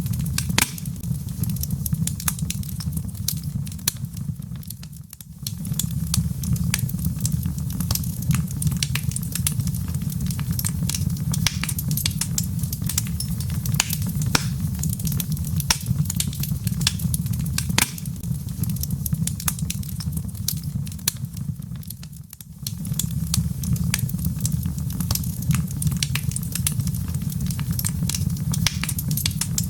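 Wood fire in a fireplace crackling, with many sharp irregular pops over a steady low rumble. The sound briefly dips twice, about five seconds in and again about seven seconds before the end.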